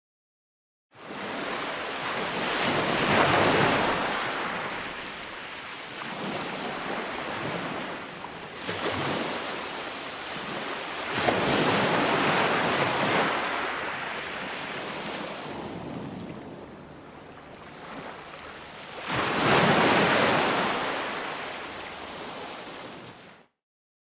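Ocean waves breaking on a shore in repeated surges, four swells rising and falling over the stretch, the loudest near the end. The sound starts about a second in out of dead silence and cuts off to silence again about a second before the end.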